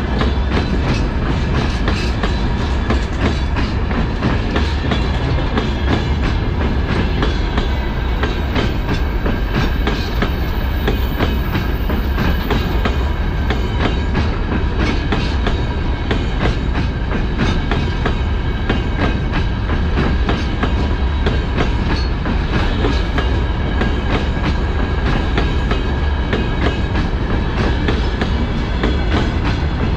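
Freight train of open-top gondola wagons rolling past close by: a loud, steady rumble of steel wheels on the rails with constant clickety-clack as the wheelsets cross the rail joints.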